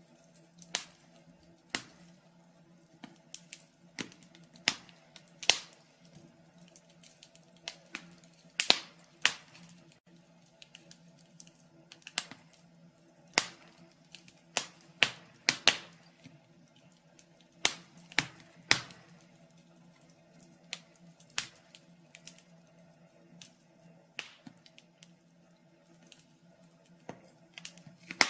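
Wood fire in a fireplace crackling, with irregular sharp pops of burning wood every second or so, some louder than others, over a faint steady low hum.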